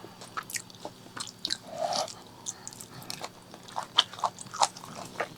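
A person chewing pork leg curry and rice close to the microphone: wet chewing with many short, irregular mouth clicks and smacks and some crunching.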